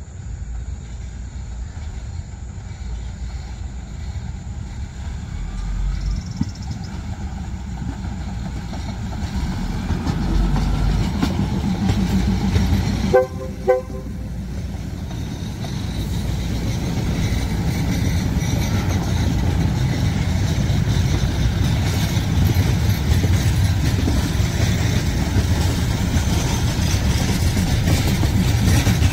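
Diesel railcar train approaching and passing close, its engine and wheel rumble growing louder as the cars go by. About 13 seconds in, the train's horn gives two short toots.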